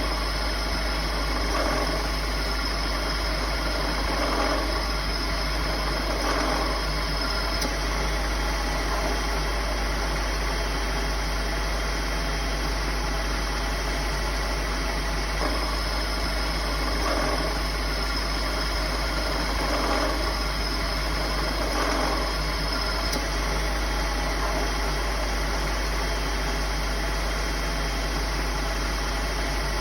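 A car engine idling steadily with an unusual noise, with faint swells recurring every few seconds.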